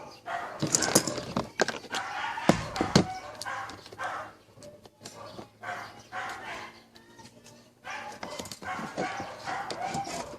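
Repeated animal calls, mixed with scattered sharp clicks and knocks that are busiest in the first few seconds.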